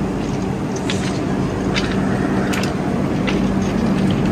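Steady low mechanical hum of a halted passenger train, with a few faint clicks.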